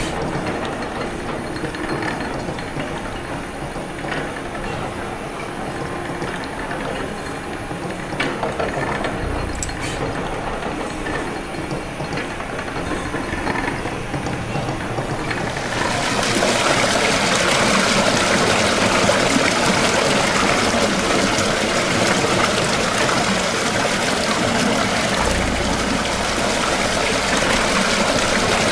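Steady mechanical clatter of a beam steam engine's shaft and spur gearing turning. About halfway through, a louder, even rush of splashing water comes in and takes over: the water of the engine's cold-water condenser cistern.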